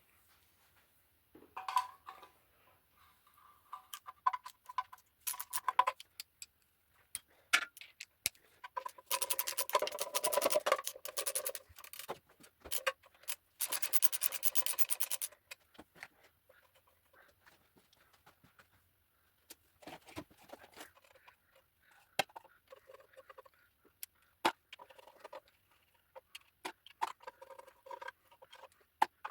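Hand tools working the sump bolts off an engine: metal spanners clinking against the bolts and sump, with two runs of rapid clicking about two seconds each, a third of the way in and again about halfway, like a ratchet being worked.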